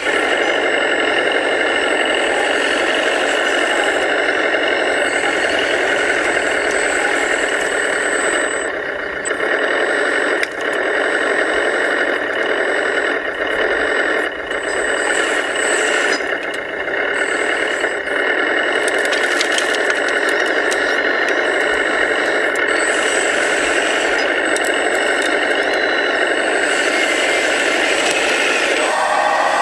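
Radio-controlled hydraulic construction model working: the steady whirring whine of its electric motor and hydraulic pump, easing off briefly several times in the middle.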